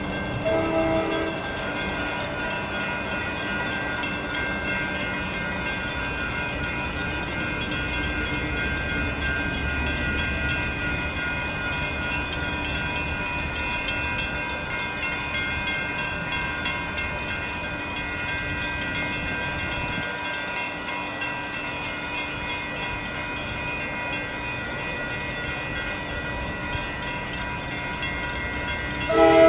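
A train locomotive's K5LA multi-chime air horn sounds a short blast about a second in and another near the end. In between, the train runs past with a steady rumble that is loudest around the middle.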